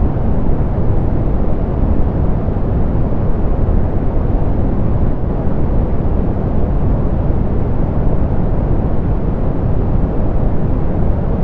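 Steady, even soft pink noise: a smooth, deep hiss weighted toward the low end, with no change over the whole stretch.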